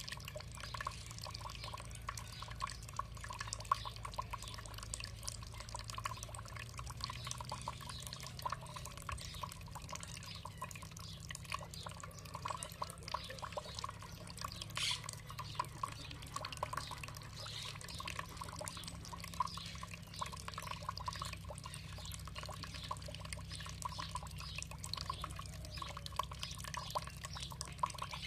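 Water trickling and dripping in a steady stream of small drips, with a faint bird call or two about halfway through.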